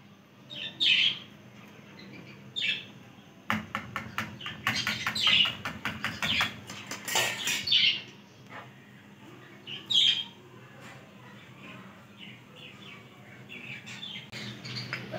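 Birds chirping in the background: a scattering of short high chirps, with a quick run of clicking from about three and a half to seven seconds in.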